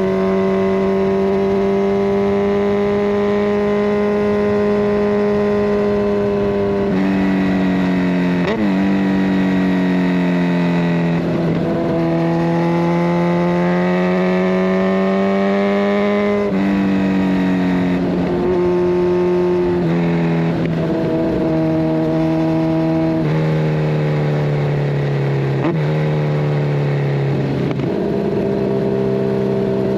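Kawasaki Ninja 1000SX inline-four on the move through a decat Scorpion Red Power exhaust. The engine note climbs slowly and then drops sharply in pitch again and again as gears change.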